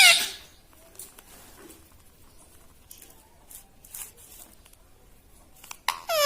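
A pet parrot's rising call trails off at the start, followed by a few seconds of faint scattered clicks and scratching; near the end the parrot begins another loud rising call.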